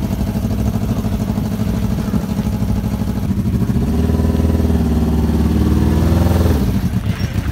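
Smart car's swapped-in streetbike engine idling, then revved up about three seconds in and held there for a couple of seconds, before dropping back to a pulsing idle near the end.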